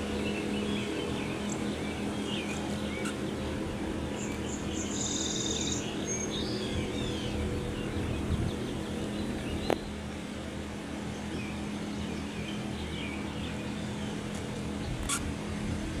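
Birds chirping over a steady low hum, with a single sharp click about ten seconds in.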